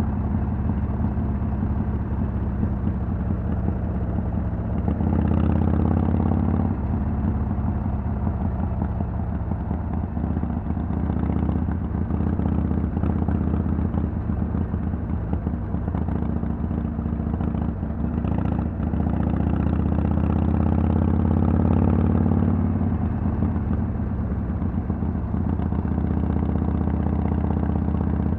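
Harley-Davidson Sportster XL883L's air-cooled 883 cc V-twin running through Vance & Hines Twin Slash slip-on mufflers with a steady, deep exhaust note. It grows louder twice, briefly about five seconds in and for a few seconds about two-thirds of the way through, as the throttle is opened.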